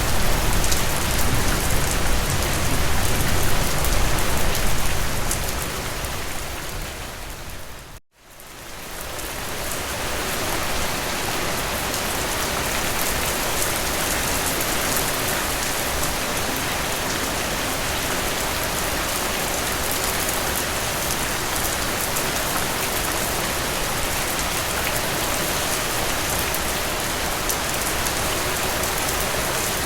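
Steady rain falling, with a deeper rumble underneath in the first few seconds. It fades out to a moment of silence about eight seconds in, then fades back in and continues evenly.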